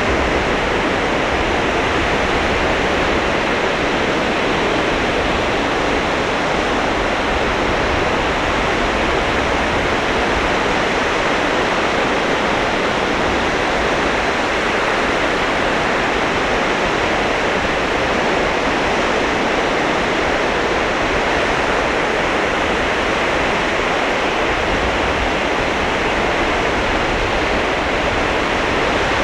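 Sea surf on a sandy beach: a steady wash of breaking waves with no single break standing out.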